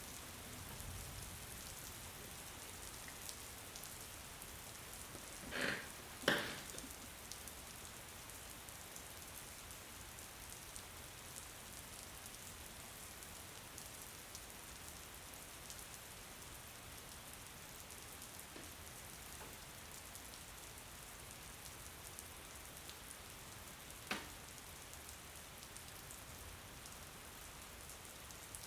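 Steady rain. Two short sounds come close together about six seconds in, the second louder, and a fainter one comes late on.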